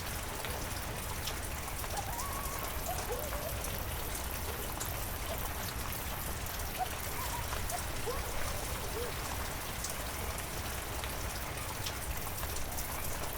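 Heavy rain falling steadily, with individual drops ticking throughout and short pitched plinks of water here and there.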